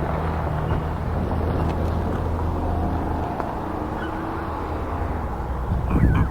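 An engine running with a low, steady hum that fades a little past halfway, over outdoor background noise.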